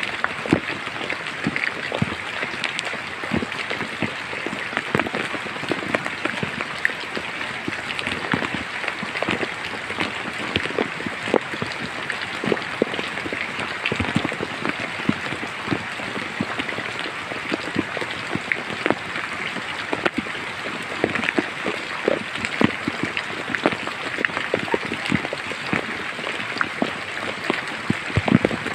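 Steady rain falling in a forest: a constant hiss with many separate drops striking throughout.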